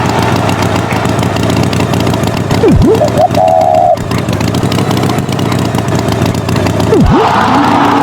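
An engine running steadily, with quick swooping drops in pitch twice and a short higher tone about three seconds in.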